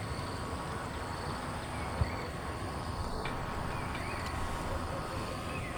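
Steady rain noise with faint high chirps of birds and a single sharp knock about two seconds in.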